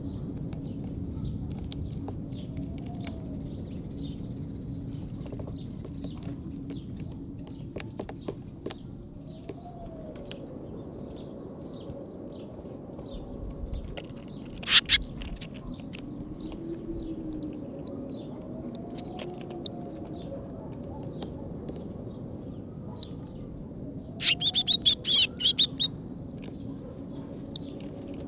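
Small birds calling: runs of short, thin, very high notes repeated several times a second, starting about halfway and coming in bouts, with a few sharp clicks or wing flutters among them. Before that only a faint steady outdoor hum.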